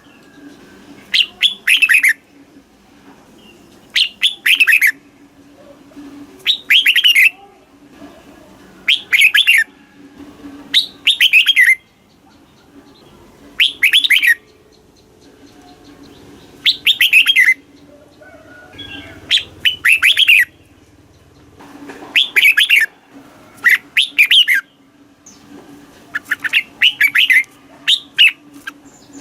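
Red-whiskered bulbul singing: short, quick warbled phrases repeated every two seconds or so, over a faint steady low hum.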